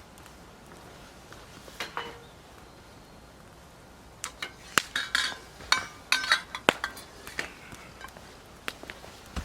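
Dishes and utensils clinking and knocking: a couple of knocks about two seconds in, then a run of sharp clinks with brief ringing through the second half.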